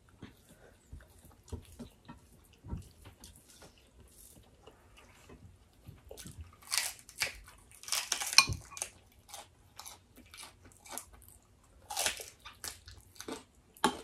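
Close-up chewing and biting of food eaten by hand, with crisp crunching bites of fresh lettuce leaf. The crunches come as many short crackles, loudest a little past the middle and again near the end.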